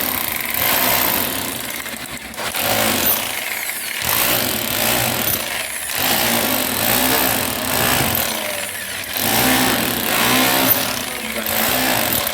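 Rotary hammer drill in hammer-only mode chiseling into a wall, running in several bursts of a few seconds with brief pauses between.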